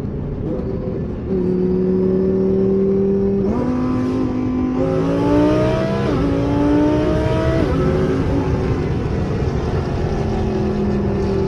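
Twin-turbo Lamborghini Huracan Performante's V10 under hard acceleration. The engine holds a steady note for a couple of seconds, then climbs in pitch and drops twice, about six and about eight seconds in, as it upshifts. A hiss rises over the engine as it pulls.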